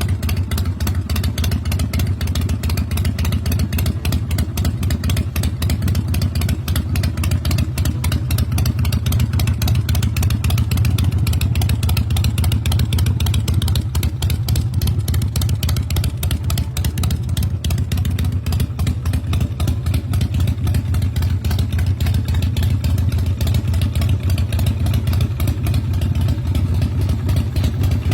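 Custom chopper's cammed Harley Evo V-twin running steadily through big-radius exhaust pipes, a continuous rapid pulsing beat that swells slightly a third of the way in.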